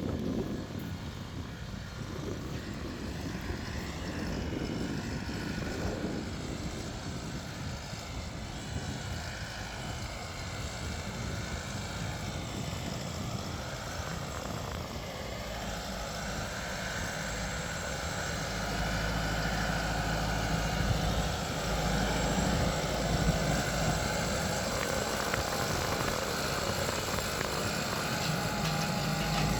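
Deutz-Fahr 5125G tractor's diesel engine running as a steady drone, growing louder and deeper in the second half.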